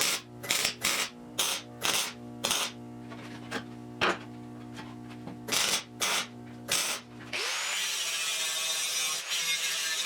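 A run of short, uneven metal knocks and scrapes as a hand tool is worked against the steel car frame, over a steady hum. About seven seconds in it cuts to a power tool running steadily with a dense hiss.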